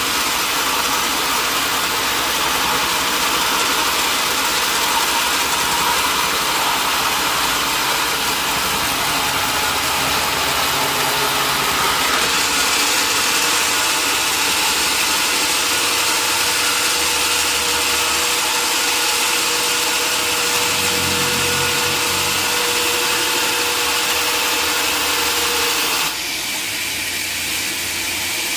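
Sawmill machinery running loudly and steadily, a dense mechanical hiss with a faint steady hum. Near the end the sound changes suddenly and drops in level.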